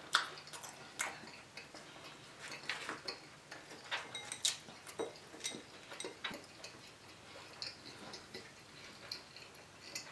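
Close-miked chewing of a crispy fried dumpling: scattered soft crunches and wet mouth clicks at irregular intervals.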